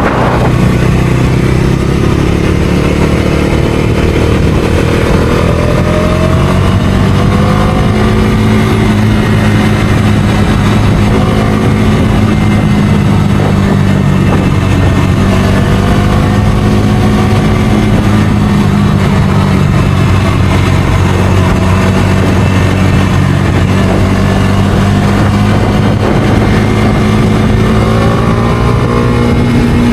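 Bajaj Dominar 250's single-cylinder engine running steadily as the motorcycle is ridden, its pitch rising slowly a few times as the throttle is opened.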